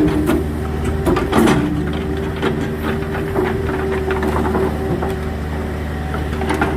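An engine running steadily at idle, with repeated knocks and clatter over it, a cluster of them about a second and a half in.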